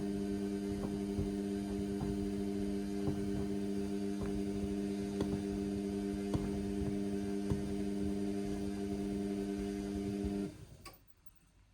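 Indesit washing machine running with a steady electric hum and faint scattered ticks, in a cycle overloaded with suds; the hum cuts off suddenly about ten and a half seconds in, leaving it much quieter.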